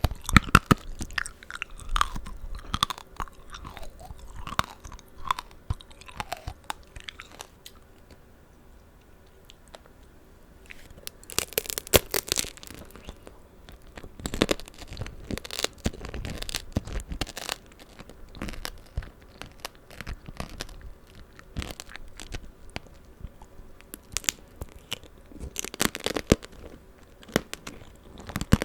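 Close-miked biting and chewing of tanghulu: the hardened sugar shell on strawberries and green grapes cracks and crunches, mixed with wet chewing of the juicy fruit. The crunching comes in clusters, with a quieter spell about a third of the way in.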